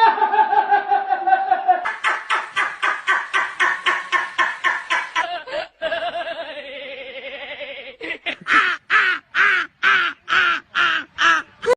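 Laughter sound effects played one after another: a rapid run of laughing pulses, a short break, then a slower laugh in separate 'ha' bursts about three a second near the end.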